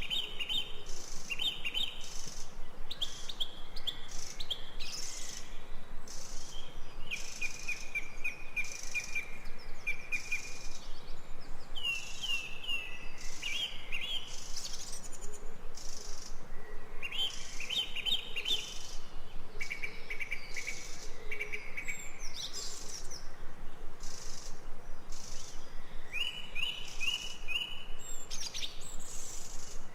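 Birds singing in short, repeated chirping phrases, over a fast, even pulsing chorus of insects.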